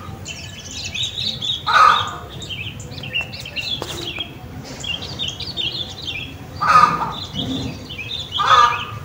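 Small birds chirping and twittering, with three louder, lower calls rising above them about two, seven and eight and a half seconds in.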